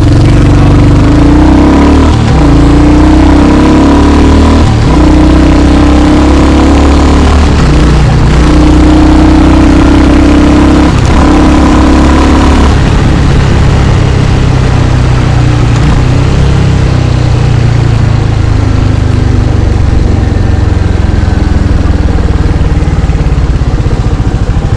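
Royal Enfield Hunter 350's single-cylinder engine pulling up through the gears, its note dipping briefly at each of several shifts in the first half, then running on steadier at lower revs.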